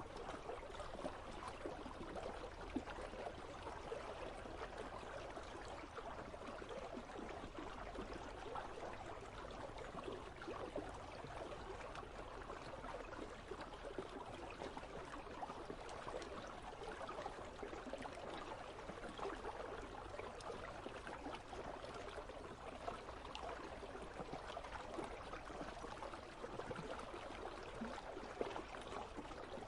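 Icy river flowing steadily, a constant even rush of water with faint little ticks and splashes scattered through it.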